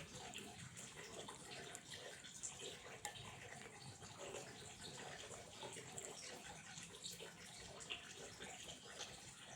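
Quiet flowing water trickling steadily, with many small splashes and drips throughout.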